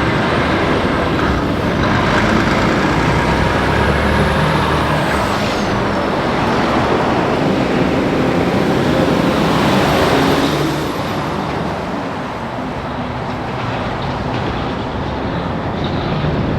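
Heavy trucks passing on a highway: engine and tyre noise, with a high whine that rises and falls over the first six seconds. The noise eases after about eleven seconds.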